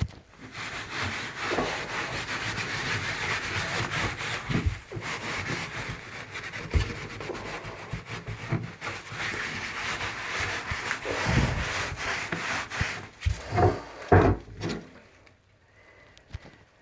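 Steady hand rubbing and scraping of a tool against the fibreglass tub surface, with scattered light knocks, stopping about fifteen seconds in.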